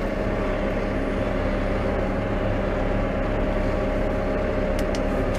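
New Holland T5 120 tractor's diesel engine running at a steady speed, an even drone with no change in revs. Two short clicks sound near the end.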